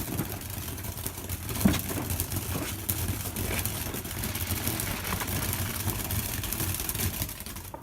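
Garden fireworks crackling and popping over a steady low rumble, with one louder bang about two seconds in.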